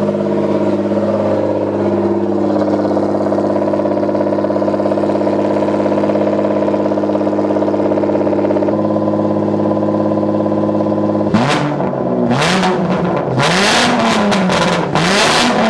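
Toyota 2JZ-GE inline-six, straight-piped with a full exhaust, idling steadily and loud. About eleven seconds in it is revved several times, pitch rising and falling, with sharp pops from the exhaust.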